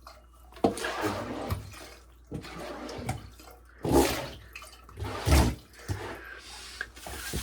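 Water splashing and sloshing in a shower stall, in irregular splashes, the loudest about four and five seconds in.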